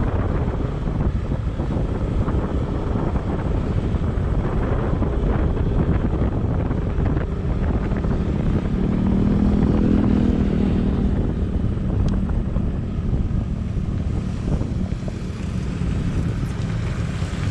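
Steady road noise of a moving vehicle, with wind buffeting the microphone. An engine hum swells about nine seconds in and fades by eleven.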